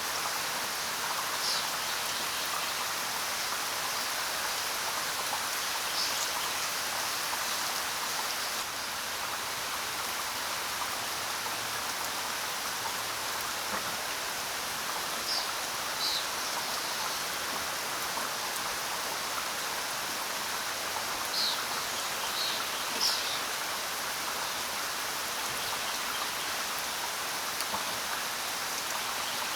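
Steady rain falling. A few short, high bird chirps are scattered through it.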